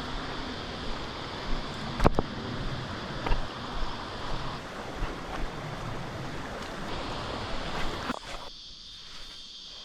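Creek water rushing over rapids, with a few sharp knocks on top, the loudest about two seconds in. The rushing falls away abruptly near the end.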